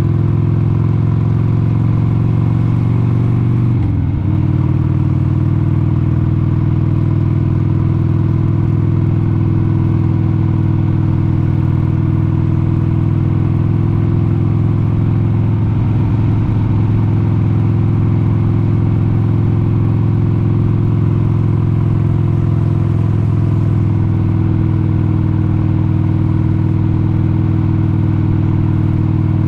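1996 Harley-Davidson XLH883 Sportster's 883 cc air-cooled V-twin running steadily at cruising speed, with a brief dip in pitch and level about four seconds in.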